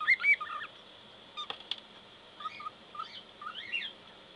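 Pet cockatiel chirping, a string of short whistled chirps and rising notes, loudest right at the start, with two sharp clicks about one and a half seconds in.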